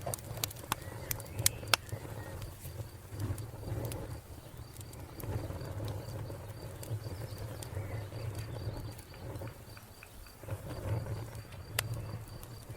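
Wood fire crackling, with several sharp pops in the first two seconds and another near the end, over a low rumble. A cricket chirps steadily behind it, about four chirps a second.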